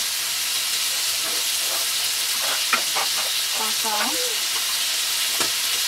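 Diced pork frying in hot oil in a wok, a steady sizzle, with a few light clicks about halfway through.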